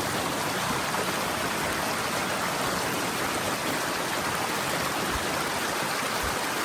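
Steady, unbroken rushing noise of water.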